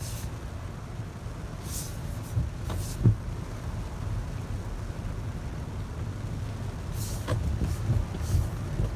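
Steady sound of a heavy rain shower on a street, water running along the curbs, under a low rumble, with a few brief hissing swells.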